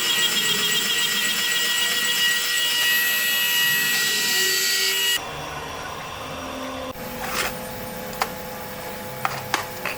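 An electric power tool working on material, a loud steady whirring with a high whine, shuts off abruptly about five seconds in. A few light clicks and knocks of handling follow near the end.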